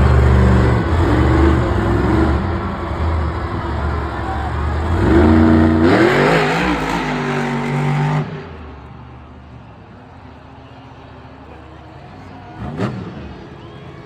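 Monster truck engine running loud and revving, its pitch rising and falling. It cuts off suddenly about eight seconds in, leaving quieter background noise, with a brief sharp sound near the end.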